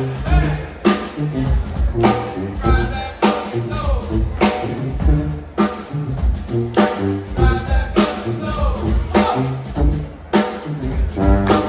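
Live brass band playing an upbeat tune: brass horns over a stepping bass line, with drums hitting a steady beat.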